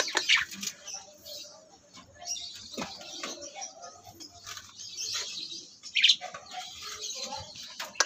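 Caged birds chirping and calling in short bursts, with scattered clicks and rustles; one louder call about six seconds in.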